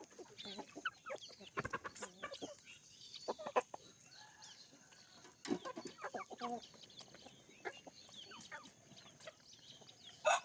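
A flock of desi (country) chickens clucking in short, scattered calls. A rooster starts a loud crow right at the end.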